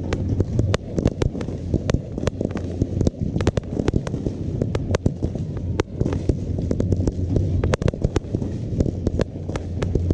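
Fireworks going off in a rapid, irregular string of sharp bangs and pops over a continuous low rumble.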